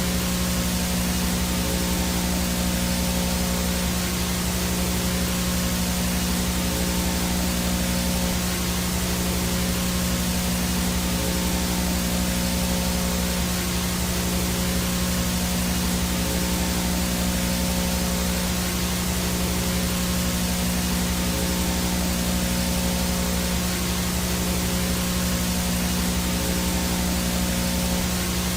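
VHS static from a blank tape or no-signal channel: a steady hiss with a low hum and faint steady tones underneath, unchanging throughout.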